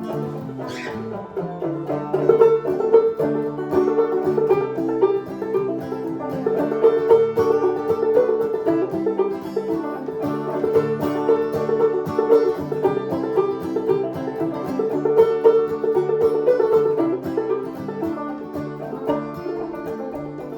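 A band playing an instrumental passage without vocals: fast-picked plucked strings over a steady rhythm and chords.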